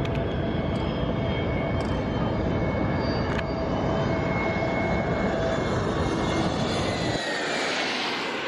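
Jet airliner passing low overhead: loud, steady engine noise with high whining tones. The low rumble drops away suddenly near the end.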